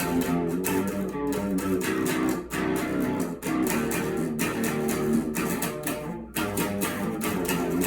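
Guitar played in repeated chords, strokes coming quickly one after another, with brief breaks about two and a half, three and a half and six seconds in.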